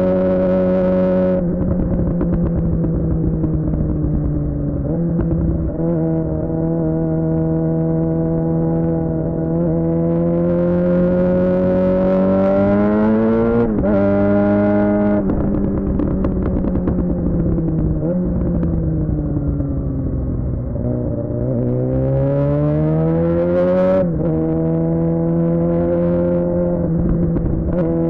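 Suzuki GSX-R600 inline-four running through a Yoshimura R11 exhaust while riding. The revs climb and fall with throttle and gear changes, and the engine drops back steadily a little after halfway before pulling up again.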